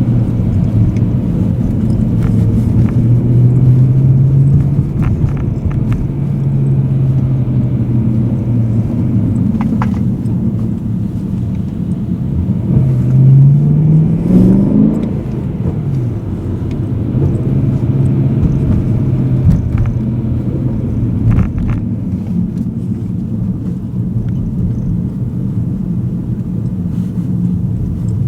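BMW M3 E92's V8 engine heard from inside the cabin, running steadily at low revs in city driving. About halfway through, the engine note rises sharply in one short burst of acceleration, then drops back to a steady note.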